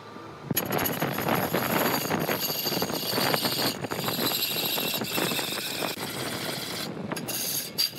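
Large wood lathe running with a turning tool cutting into the spinning wood. The noisy cut starts about half a second in, with short breaks near the end as the tool comes off the wood.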